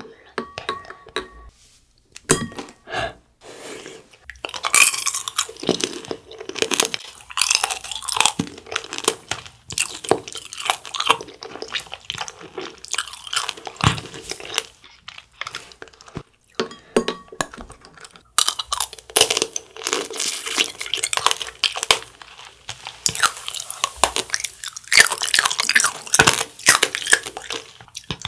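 Candied cherries (tanghulu) crunched and chewed close to the microphone, the hard sugar shell cracking between the teeth in long runs of crackling, with a brief pause about two-thirds of the way through.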